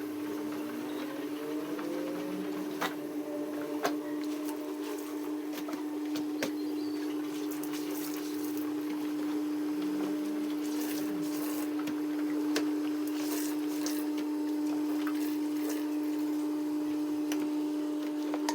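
Laundry machine's electric motor running with a steady hum, having switched on just before. Short rising whines come in the first couple of seconds as it spins up, and scattered light clicks and rattles sound throughout.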